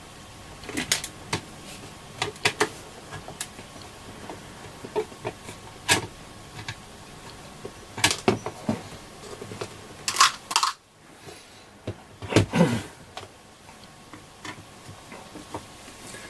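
Irregular sharp clicks and light metallic clatter of a screwdriver, small screws and the receiver's case as the front panel of an AOR AR-2002 receiver is unscrewed, with two longer rattles about ten and twelve seconds in.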